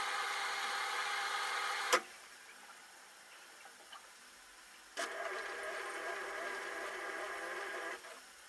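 LG F10A8HDS5 front-loading washing machine tumbling its drum in the wash phase, the motor whining in two steady stretches of about three seconds with a pause between. There is a sharp click about two seconds in as the first stretch stops, and another at about five seconds as the second one starts.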